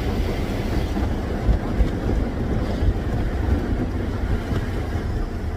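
Automatic car wash working over the car, heard from inside the cabin: a steady rushing and rumbling of water and equipment on the body.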